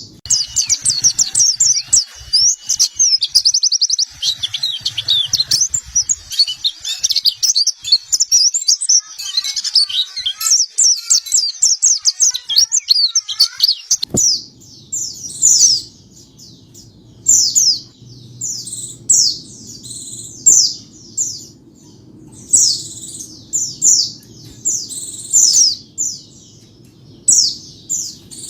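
White-eye (pleci) song: rapid, high, twittering chirps and trills, densely packed for about the first half. A sharp click comes about halfway, after which the song continues as separate short chirp phrases over a faint low background noise.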